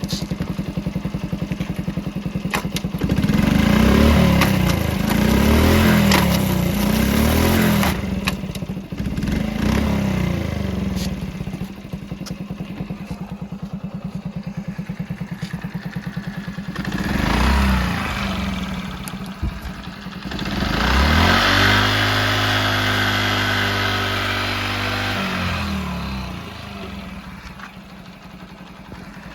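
1983 Honda Chaly 50's small four-stroke single-cylinder engine idling with a steady putter. It is blipped several times a few seconds in, revved briefly near the middle, then held at higher revs for about five seconds before dropping back to idle.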